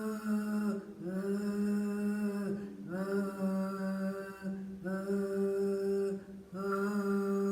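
A woman's voice toning a low, steady throat sound, held on one pitch in long notes of about two seconds each with short breaks for breath between them. It is the grounding sound of a vocal healing exercise, meant to push the vibration down into the abdomen (the lower danjan).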